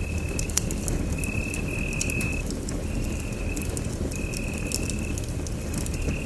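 Wood fire burning in a fireplace: a steady low rumble with scattered sharp crackles and pops. A thin high tone sounds in short repeated stretches, about one a second.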